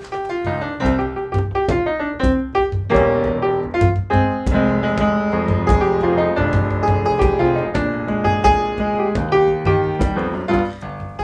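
Piano music, many quick notes played over chords.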